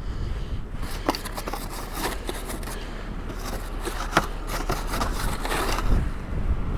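Irregular crunching and scraping in deep snow, from snow being dug and cleared around a car.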